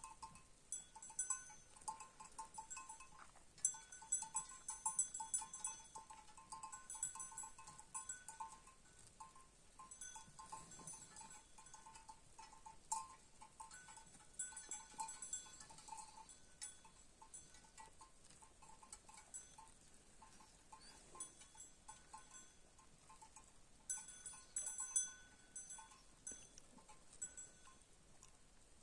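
Faint livestock bells clanking irregularly, several bells ringing on and off, busiest around the first few seconds and again near the end.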